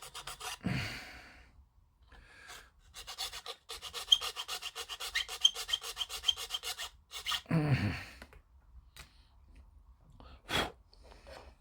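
A small file rasping at a polystyrene model-kit part, enlarging a slot: two runs of quick, even back-and-forth strokes, several a second. Each run is followed by a short, louder whoosh, and there is a single click near the end.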